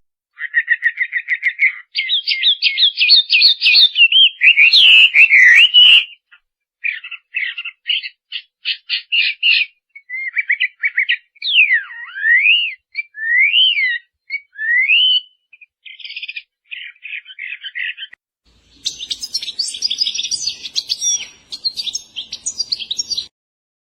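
Songbird song in a string of varied phrases: a trill, fast warbling, runs of rapid repeated notes, several slurred up-and-down whistles, then a burst of busy chatter, with short silent gaps between phrases.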